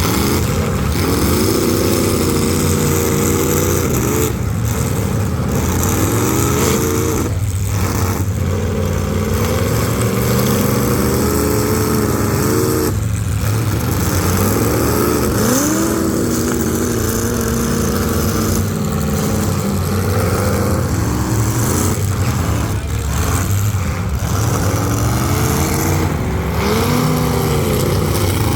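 Full-size demolition derby cars' engines revving up and falling back again and again over a steady low engine rumble.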